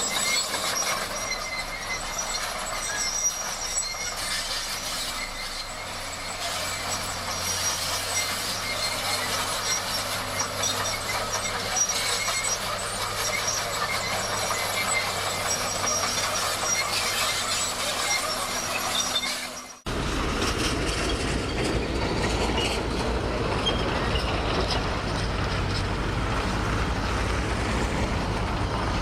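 Crawler bulldozer at work: metallic squealing and clanking of its steel tracks over the engine. About 20 seconds in, the sound cuts abruptly to a deeper, steady heavy-machine engine rumble.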